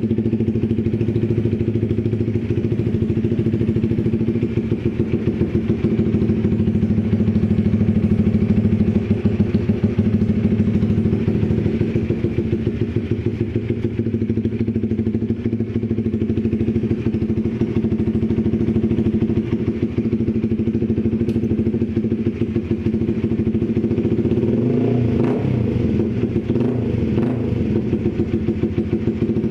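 Honda CBR motorcycle idling steadily through a Proliner can-style racing exhaust, a loud, even exhaust note. Its pitch wavers briefly about three-quarters of the way through.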